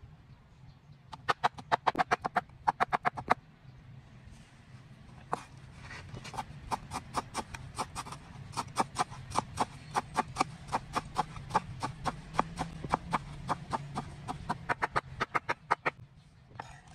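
A rapid series of short, sharp knocks, several a second: a short run early on, then after a pause a longer run that stops near the end.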